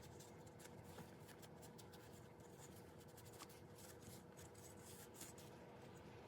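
Faint, irregular rubbing and scratching of an electronics cleaning wipe being worked over a dishwasher's control circuit board.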